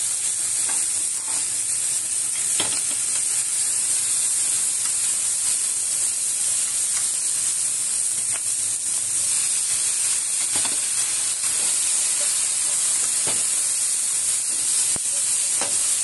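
Food frying in a little salad oil in a pan, a steady sizzle with a few light clicks scattered through it.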